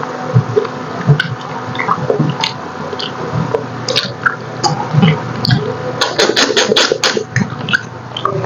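Close-miked wet chewing and lip-smacking while eating braised pork hock (paksiw na pata): sticky clicks and squelches, with a quick run of smacks about six seconds in.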